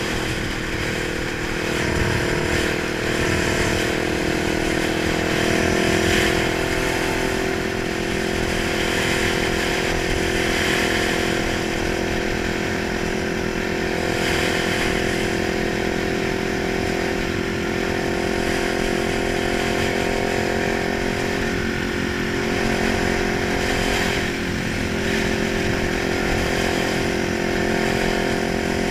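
Kawasaki 900 motorcycle engine running at a steady speed, with small rises and falls in engine speed in the first several seconds.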